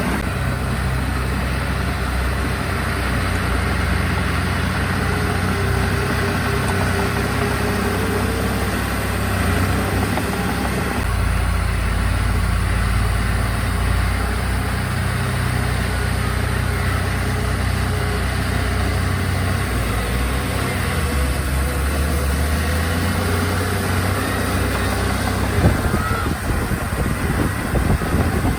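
Diesel engines of heavy earthmoving machinery, bulldozers and dump trucks, running steadily. The engine note shifts a couple of times as the load changes, with a few sharp knocks near the end.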